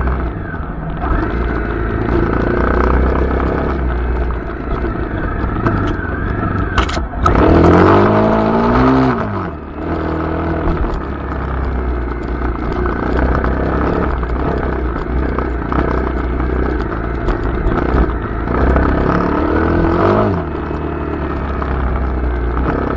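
Honda CRF250L single-cylinder dirt-bike engine running under way, with revs rising and falling. There is a hard acceleration with rising pitch about seven to nine seconds in, and another about nineteen to twenty seconds in that cuts off sharply. Rattles and knocks from the bike come in over rough ground throughout.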